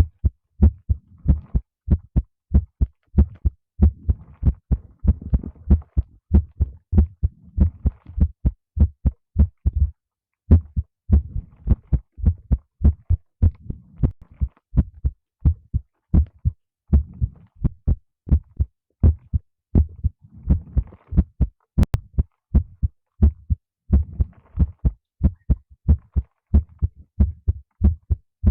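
Human heartbeat picked up close on a microphone: a steady, even run of deep thumps. There is a brief break about ten seconds in and a single sharp click a little past twenty seconds.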